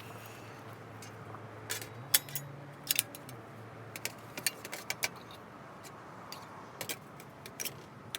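A dozen or so irregular sharp clicks and snaps, the loudest about two and three seconds in, over a low steady hum.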